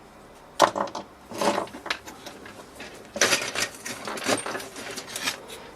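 Removed coffee-machine parts being handled and set down on a work surface: a sharp knock about half a second in, then irregular knocks and clattering.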